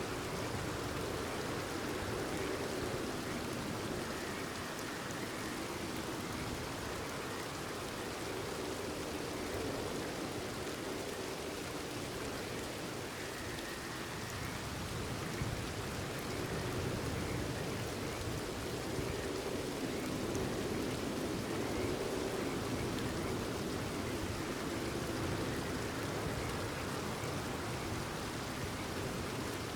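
Steady rain falling, with frogs calling underneath it.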